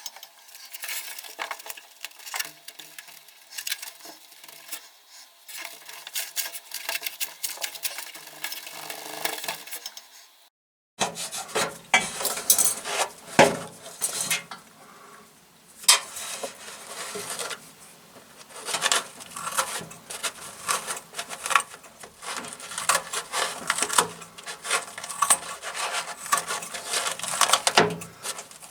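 Hand-work noises as a kitchen sponge with double-sided tape is fitted against the drain hose inside a washing machine: irregular rustling, scraping and small clicks and knocks, with a brief dead gap about ten seconds in.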